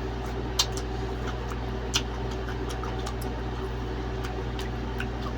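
Close-miked eating sounds: scattered short, sharp clicks and smacks of chewing, two louder ones about half a second and two seconds in, over a steady low hum.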